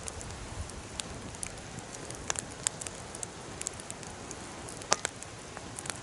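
Wood fire burning with an even hiss and irregular sharp crackles and pops; the loudest pop comes about five seconds in.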